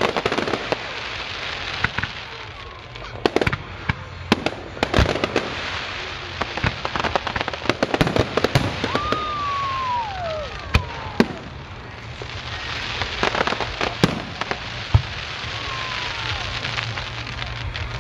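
Fireworks display: a rapid, irregular run of sharp bangs and pops from bursting aerial shells over a continuous hiss of burning stars, with a couple of falling whistling tones about halfway through.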